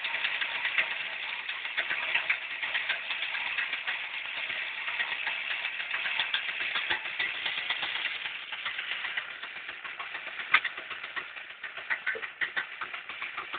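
Homemade winch driven by a Vyatka scooter's single-cylinder two-stroke engine, running with a steady rattling clatter. It runs a little quieter after about ten seconds, with one sharp knock around then.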